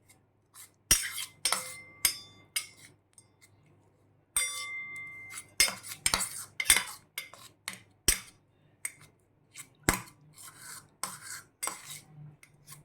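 A spoon stirring and scraping in a bowl, with repeated clicks and a few ringing clinks against its side, as Oreo biscuit cream is mixed with milk into a filling.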